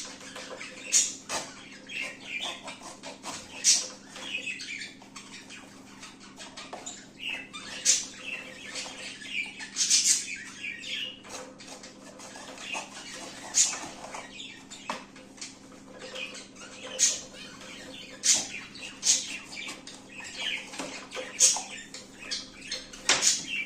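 Cardboard being cut, irregular short crunching snips, with zebra finches calling in the background.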